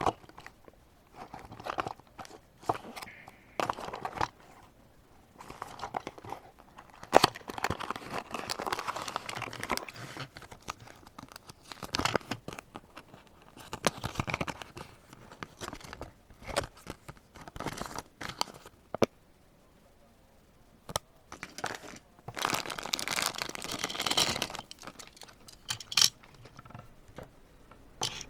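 The small packaging box of a Tomica die-cast minicar being handled and opened by hand: irregular crinkling and rustling with sharp clicks and taps, in two longer busy stretches.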